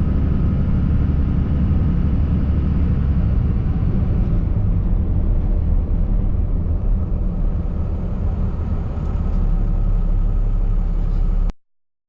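1994 Dodge 3500 truck's engine running steadily, a deep, even sound with no revving. It cuts off abruptly near the end.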